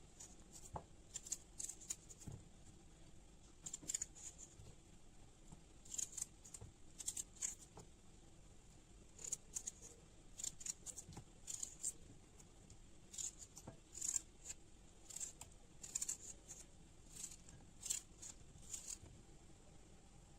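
Faint kitchen food-preparation sounds: short, crisp scrapes and clicks from a utensil, coming in small clusters every second or so.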